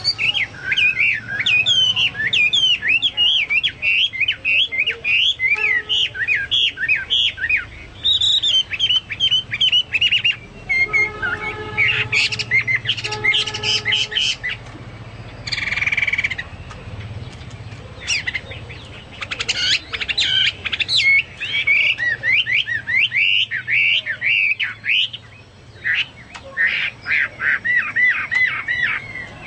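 Chinese hwamei singing in full, vigorous song: long runs of quick, varied whistled phrases likened to the song of the cucak Papua or cucak mas, with a few short pauses and a brief harsh note about sixteen seconds in. A faint low hum runs underneath.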